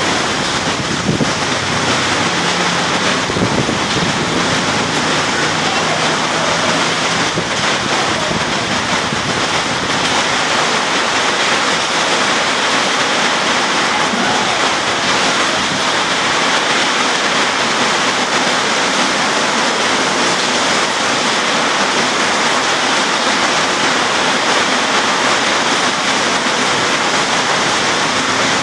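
Very heavy rain pouring down in a dense, steady hiss.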